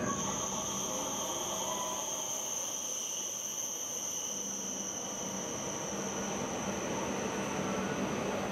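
E7 series Shinkansen rolling slowly into a station, with a steady high-pitched squeal from the train that starts suddenly right at the start, over a rumble of the passing cars and a low hum.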